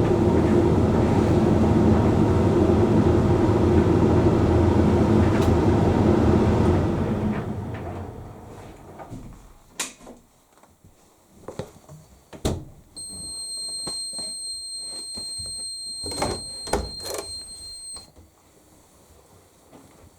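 Hoover Link X Care condenser tumble dryer running steadily, then winding down about seven seconds in. A few clicks and knocks follow, and near the end a single high electronic beep holds for about five seconds, the dryer's end-of-cycle signal.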